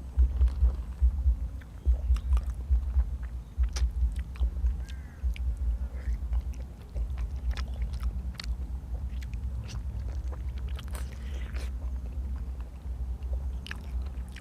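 Close-miked chewing and biting of stewed pig's head: an uneven low pulsing of the jaw throughout, with scattered sharp mouth clicks.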